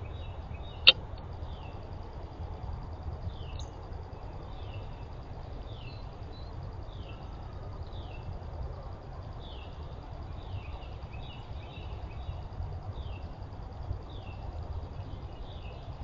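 Wild birds calling: short downward-slurred chirps repeating about once a second, over a steady low rumble. A single sharp click about a second in.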